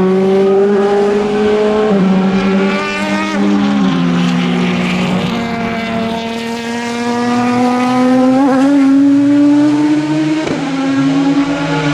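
Racing car engine under hard acceleration, its pitch dropping sharply at gear changes about two and three and a half seconds in, then climbing steadily through a long pull with further quick shifts near the end.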